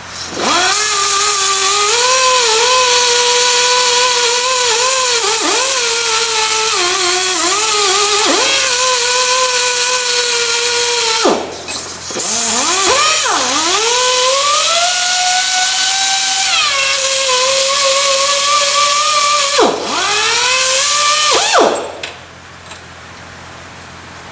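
Handheld power tool running under load, its whine sagging in pitch each time it bites into the work and recovering as it eases off. It stops briefly about eleven seconds in, restarts with a deep pitch dip, stops again near twenty seconds, and is switched off a couple of seconds before the end.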